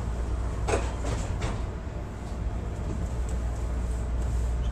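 Steady low hum inside a Chicago CTA Brown Line railcar standing at a station, with a brief clunk just under a second in.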